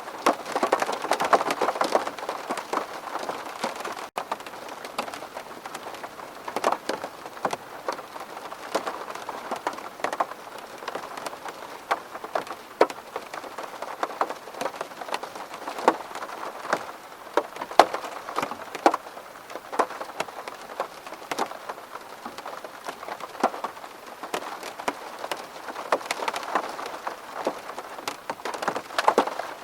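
Steady rain pattering on a window, with many individual drops ticking sharply against the glass. There is a brief dropout about four seconds in.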